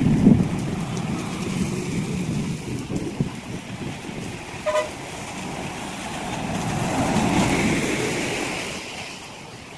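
Road traffic passing, with a short vehicle horn toot about halfway through and another vehicle swelling past and fading near the end.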